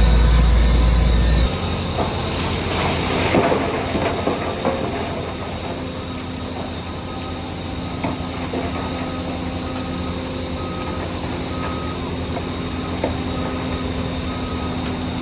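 Heavy diesel earthmoving machinery running, its deep rumble easing off about a second and a half in, with a rushing hiss for a second or so after. A reversing alarm then beeps repeatedly over the steady engine.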